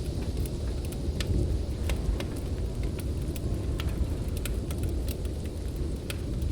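Steady low roar of storm wind with a wood fire crackling over it: sharp little pops and snaps about once or twice a second.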